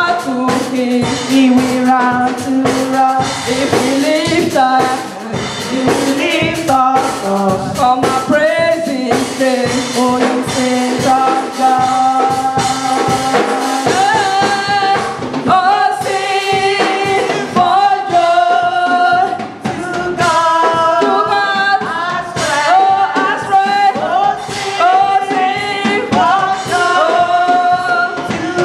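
Church worship music: a choir singing over a live band with drums.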